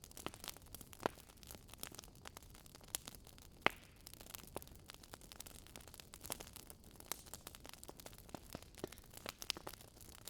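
Wood fire crackling: irregular snaps and pops over a soft steady hiss, with one sharper pop about three and a half seconds in.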